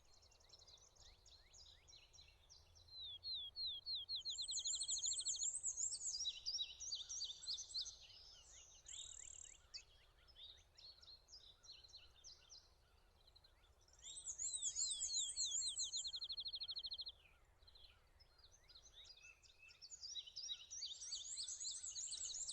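Several songbirds singing high-pitched, overlapping songs: fast zigzag trills and rapid runs of even notes, in loud bursts with quieter chips and short down-slurred notes between them.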